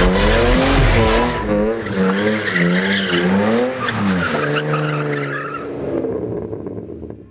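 BMW drift car engine revving up and down as the throttle is worked through a drift, with tyre skid noise in the first second or so. The revs then hold steady briefly and the sound fades out near the end.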